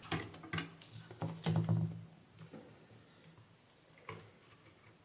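Light clicks and scraping taps of hand tools working on a circuit board, several in the first two seconds and one more about four seconds in.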